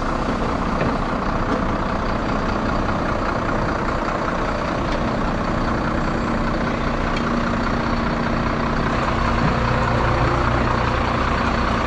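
Heavy recovery truck's diesel engine running steadily under load while its winch pulls a 26-tonne lorry out of a ditch. A deeper hum joins near the end.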